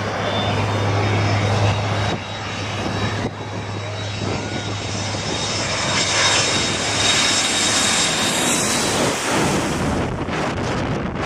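Jet airliner on landing approach passing low overhead: a loud engine roar with a steady high whine that drops in pitch as it goes by, about eight seconds in, then starts to fade near the end.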